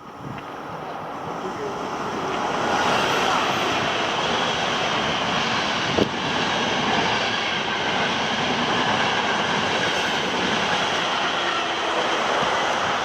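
An Intercity train going by on the rails, a steady rush of wheel and rail noise that builds over the first few seconds and then holds, with one sharp click about six seconds in.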